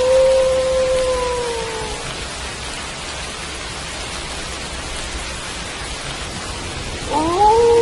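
Wolf howling over steady rain. One long howl ends about two seconds in, sagging slightly in pitch. Near the end another howl begins, rising and then holding steady.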